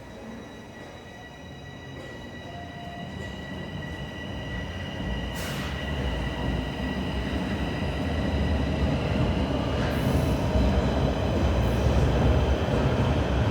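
TTC Sheppard line subway train running, its low rumble growing steadily louder, with a steady high whine held over it.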